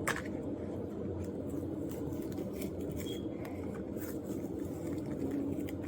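A steady low hum, with a sharp click near the start and a few faint clicks later, fitting a plastic-and-card toy-car blister pack being handled and opened.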